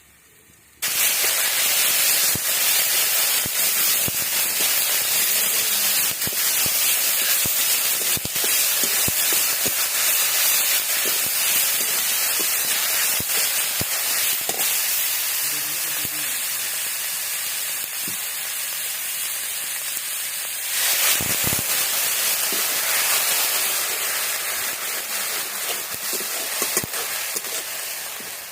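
Food frying in hot oil in a pan, a loud steady sizzle that starts suddenly about a second in and eases off slightly near the end.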